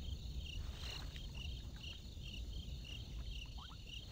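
Insects chirping in a steady rhythm, about two to three short pulses a second, over a low rumble of ambience; a couple of brief rising chirps sound near the end.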